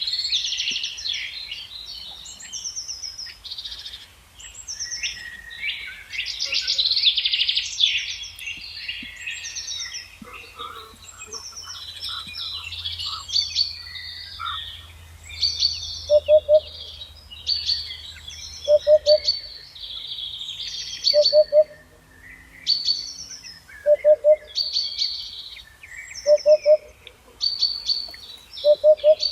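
Several songbirds singing at once, overlapping high chirping and trilling songs. About halfway through, a lower two-note call joins in and repeats about every two and a half seconds.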